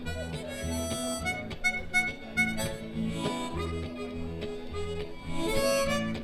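Live blues band playing an instrumental break with no vocals: a held, pitched lead line over a pulsing bass line and steady drum hits.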